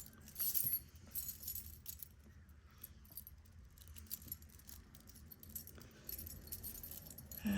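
Metal costume jewelry clinking and jingling as pieces and chains are handled, with a louder cluster of clinks about half a second in, then scattered light clicks.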